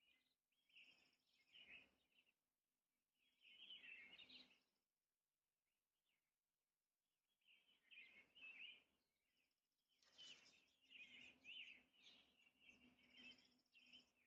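American robin singing faintly in short bursts of quick, warbled chirping phrases, with pauses of a second or two between them, four bursts in all.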